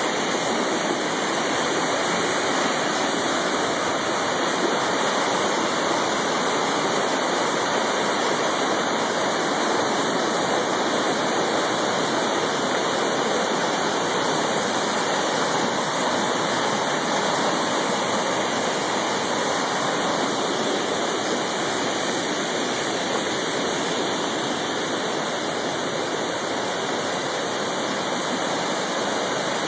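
A flooded river rushing steadily, a loud even wash of running water that never lets up.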